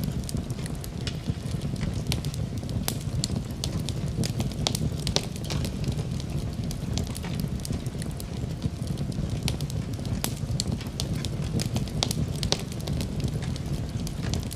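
Fire burning in a fireplace: a steady low rumble of flames with many sharp crackles and pops scattered irregularly throughout.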